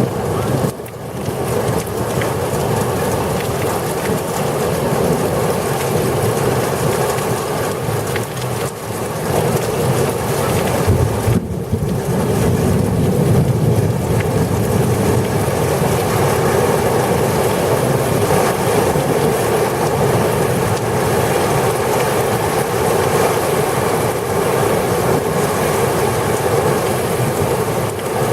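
Thunderstorm with heavy rain and strong wind making a steady, loud roar, with a brief lull about a second in and another near the middle.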